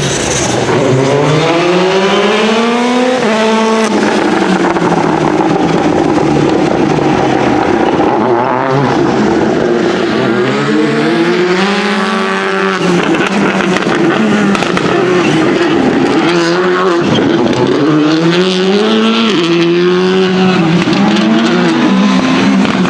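Citroen C3 WRC Plus rally car's turbocharged 1.6-litre four-cylinder engine revving through the gears. Its pitch climbs and then drops again about three times: early on, around the middle and again later.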